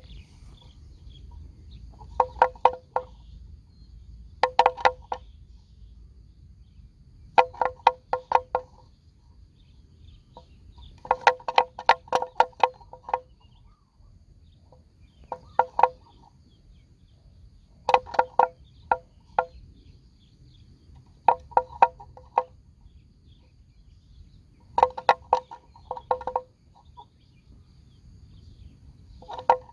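A bird calling in bursts of rapid short notes on one pitch, a burst every three seconds or so.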